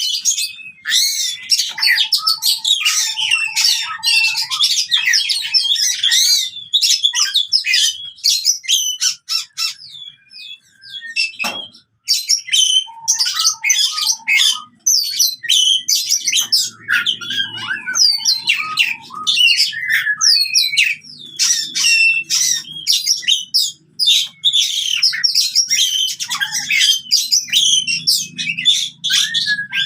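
Oriental magpie-robin (kacer) singing its aggressive fighting song, a rapid, varied stream of whistled and harsh notes. The song breaks off in a short lull about ten seconds in, broken by a single sharp click, then resumes just as dense.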